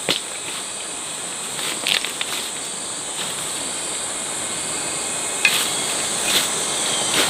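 Steady high-pitched drone of insects, with a few short sharp knocks scattered through it.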